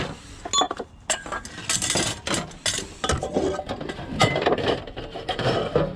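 Metal scrap and bicycle parts being handled and sorted, with irregular clinking, rattling and knocking of metal on metal.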